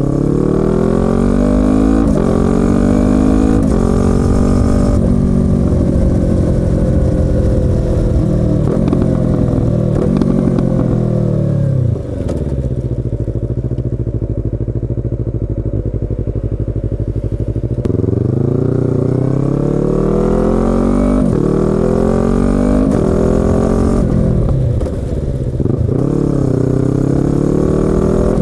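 Yamaha YZF-R25's 249 cc parallel-twin exhaust accelerating through the gears, the pitch climbing and dropping back at each upshift. About twelve seconds in the revs fall away to a low, steady note, then it pulls away again through several more upshifts, easing off briefly near the end.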